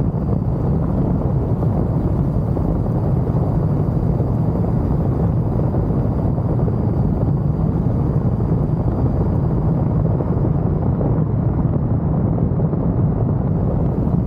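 Kawasaki Z900 inline-four motorcycle engine running at a steady pace while riding, mixed with wind rush over the camera microphone.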